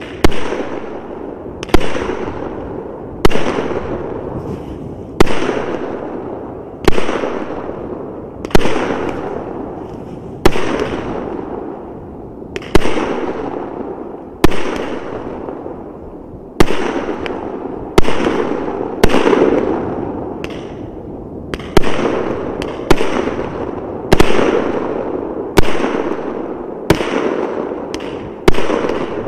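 Consumer firework battery of 36 shots, 1.2-inch (30 mm) calibre, firing in sequence: a sharp bang every one and a half to two seconds, each trailing off over a second or so, about twenty in all.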